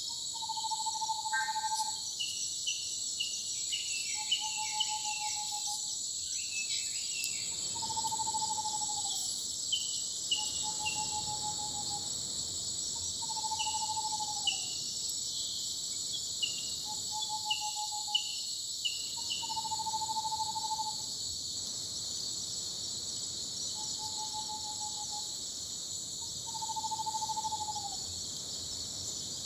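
A night chorus. A single whistled call repeats about every three seconds, each note a second or so long and some sliding down at the end. Under it runs a steady high-pitched insect trill, with bursts of short chirps in the first half.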